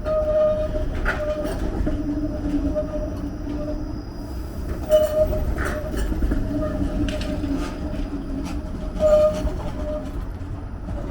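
A TTC Bombardier Flexity Outlook streetcar moving on the track, with a steady electric whine over a low rumble. Wheels click and knock over rail joints and switches, with two louder knocks about five and nine seconds in.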